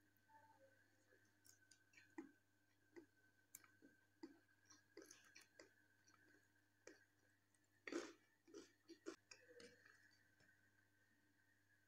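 Faint eating sounds: chewing and soft clicky mouth noises at irregular moments, the loudest about two-thirds of the way through, over a steady faint hum.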